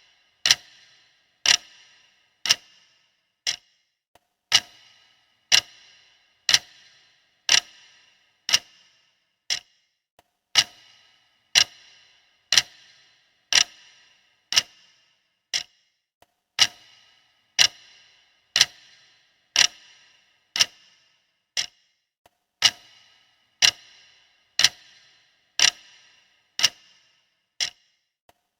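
Clock ticking steadily at about one tick a second, each tick a sharp click with a short metallic ring; roughly every sixth tick is much fainter.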